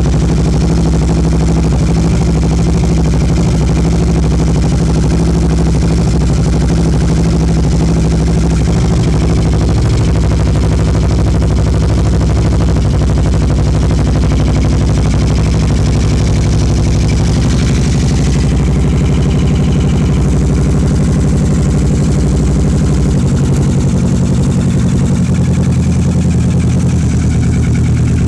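Kawasaki ER-6n parallel-twin motorcycle engine running at low revs through a Two Brothers aftermarket exhaust, a steady deep exhaust note whose pitch shifts a little a few times in the second half.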